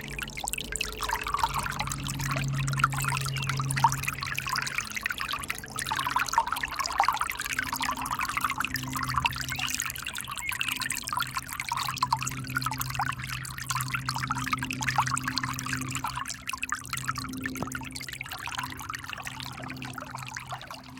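River water flowing and splashing in a busy, trickling babble, with a low steady hum underneath.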